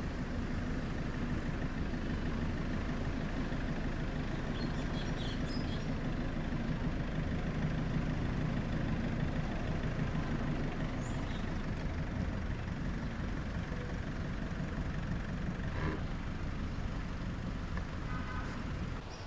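A van driving: a steady low engine and road rumble.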